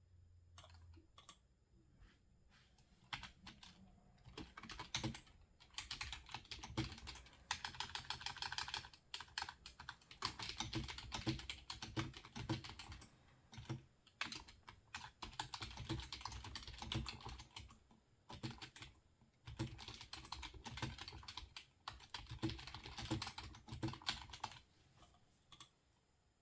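Typing on a computer keyboard: bursts of rapid keystrokes separated by short pauses, with only scattered clicks in the first few seconds and again near the end.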